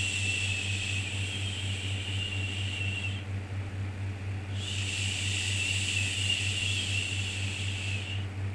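Looped 'shhh' shushing sounds for soothing a baby, each lasting about three and a half seconds with a pause of a second or so between, over a steady low drone. One shush ends about three seconds in, and the next runs from about four and a half seconds in to just before the end.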